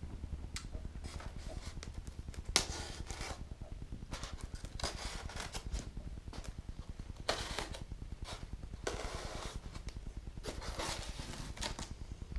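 Rustling and scraping of paper and cardboard packaging as parts are handled, in short irregular bursts about a dozen times, over a steady low hum.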